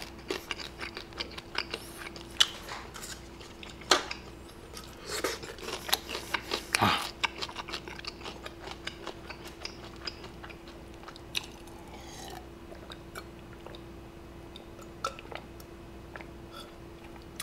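Close-miked chewing of fried chicken: wet mouth clicks and smacks, busiest in the first seven seconds, then sparser.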